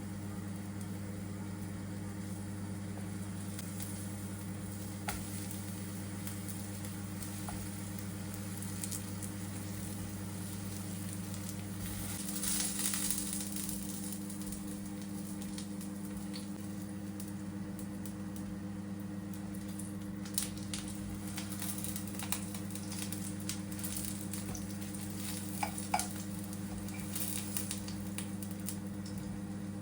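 Food sizzling in a frying pan over a steady low hum, louder for a couple of seconds near the middle, with a few light clinks of utensils toward the end.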